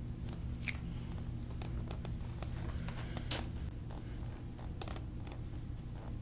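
Scattered soft rustles and small clicks of hands rubbing and pressing on a patient's back and clothing on a treatment table, with two sharper clicks about a second in and near the middle, over a steady low hum.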